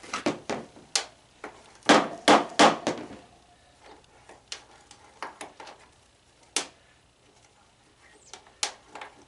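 A run of sharp knocks and clatter from parts of an old tanning bed being worked loose by hand. The loudest knocks come in a cluster about two seconds in, followed by scattered lighter clicks.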